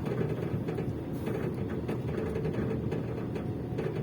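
Truck engine running and road noise heard from inside the moving cab, a steady low drone with a few faint knocks.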